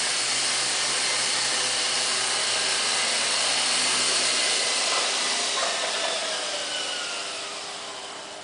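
Nine Eagles 209A radio-controlled helicopter's electric motor and rotors running with a steady whir. From about five seconds in, the pitch slides down and the sound fades as the motor spins down.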